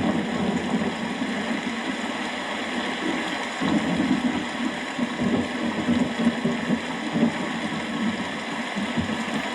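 Steady rain falling, with a low rumble of rolling thunder under it that swells about three and a half seconds in.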